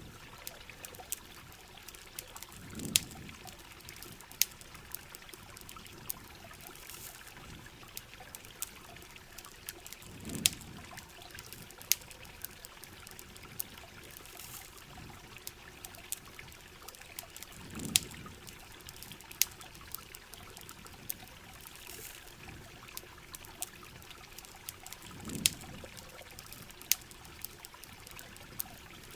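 Steady rain and running water with frequent sharp crackles and pops from a campfire, and a low swell that comes back about every seven seconds.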